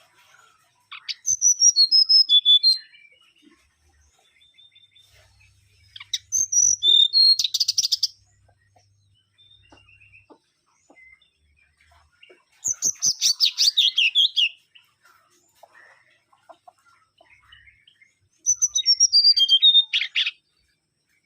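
Mangrove whistler singing four song phrases, a few seconds apart. Each phrase is a quick run of clear whistled notes stepping down in pitch and ending in a fast rattle of notes.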